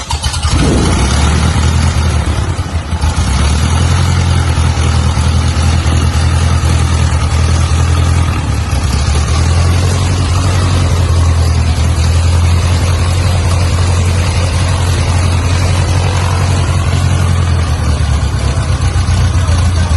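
Cessna 152's four-cylinder Lycoming piston engine running steadily, a loud, even drone. Its low hum firms up about three seconds in.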